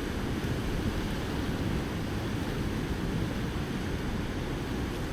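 Steady rushing of the high, fast-flowing river, mixed with wind rumbling on the microphone.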